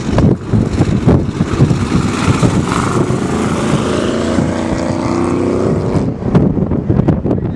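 Strong wind buffeting the microphone in gusts, with a vehicle's engine swelling and fading as it passes from about two to six seconds in.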